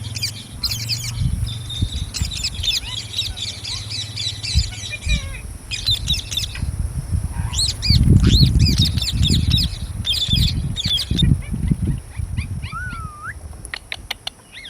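Green parrots calling in rapid bursts of short, high chirps that come in clusters and pause between them. About eight seconds in there are a few seconds of low rumbling and thumps.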